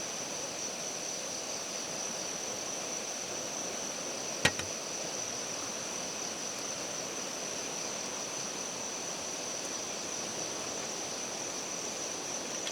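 Steady high-pitched drone of insects in the forest, over a faint background hiss, with one sharp knock or snap about four and a half seconds in.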